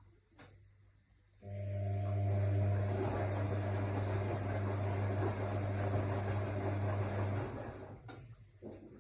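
AEG Lavamat L62850L washing machine: a relay click, then a steady electric hum with a rushing of water for about six seconds that cuts off, followed by another click near the end.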